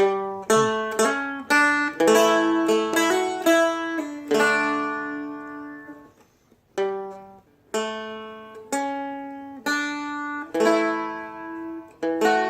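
Seagull Merlin M4, a four-string diatonic dulcimer-style instrument, played with a flatpick: a slow line of single notes and chords, each one picked sharply and left to ring and fade, with short breaks between phrases.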